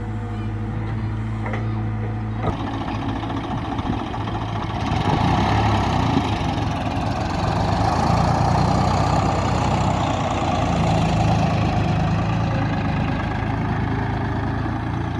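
Heavy machinery engine running steadily, then picking up load about two and a half seconds in and growing louder and rougher from about five seconds on.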